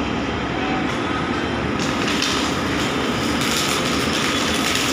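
Steady mechanical hum and rushing noise of an electric train standing at a platform with its onboard equipment running. The noise turns brighter and hissier about two seconds in.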